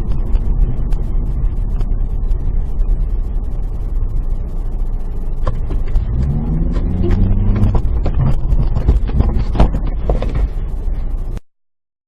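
Car driving with a steady low road and engine rumble. About six seconds in, an engine note rises, and a few sharp knocks follow before the sound cuts off abruptly near the end.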